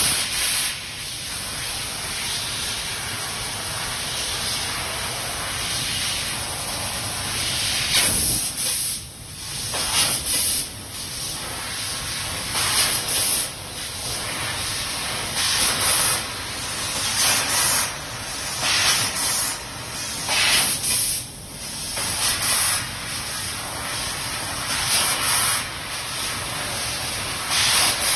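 Fiber laser cutting machine at work on sheet metal: a steady gas hiss from the cutting head, swelling in repeated short louder bursts as cuts start and stop.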